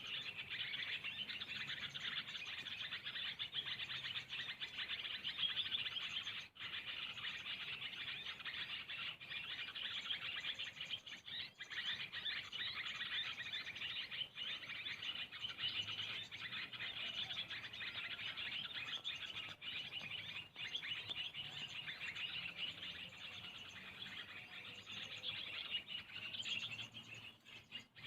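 Small birds chirping and twittering in a dense, continuous chorus.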